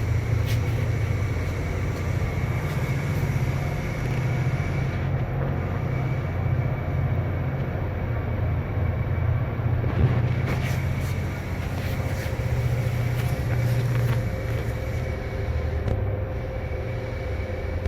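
Steady low machinery hum with a faint, constant high whine and a few light knocks, as of powered machine-shop equipment running.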